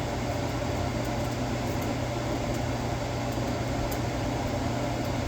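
Steady whirring hum and hiss from the stovetop, a fan-like kitchen noise, with a few faint light ticks.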